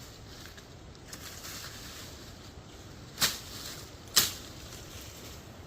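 Two sharp chops about a second apart, a blade striking into wood or bush stems, with faint rustling of brush before them.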